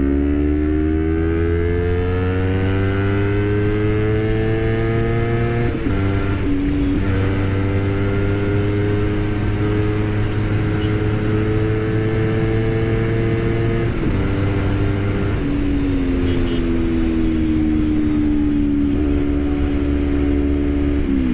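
Honda CBR250RR parallel-twin engine under hard acceleration. Its pitch climbs for about six seconds, breaks briefly as at a gear change, then holds high and steady. Near the end the revs fall away as it slows, over a low rush of wind and tyre noise.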